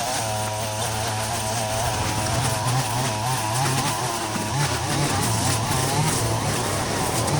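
Small two-stroke brush cutter engine running at high revs while cutting grass, its pitch wavering up and down as the load changes.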